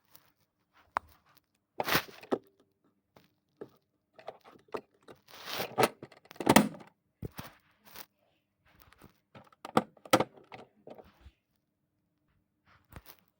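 Wheels and tyres knocking and thudding irregularly inside a tumbling LG washing-machine drum, with rustling bursts between the knocks and a faint steady hum from the machine underneath.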